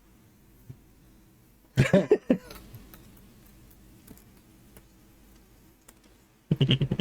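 Quiet room with a few faint small clicks, broken twice by short vocal sounds from the people, about two seconds in and again near the end.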